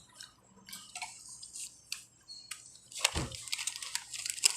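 Scattered clicks and crackles of food and packaging being handled while eating, with a dull thump about three seconds in and a quick run of crinkly clicks after it.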